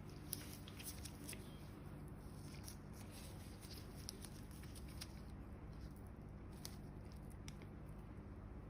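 Faint light crackles and rustles from hands working on bare feet and skin, scattered irregularly over a steady low hum.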